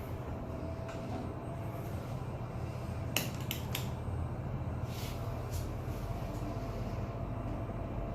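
Toshiba passenger elevator running: a steady low hum with a faint, thin steady tone above it, broken by a quick cluster of sharp clicks about three seconds in and two more clicks a couple of seconds later.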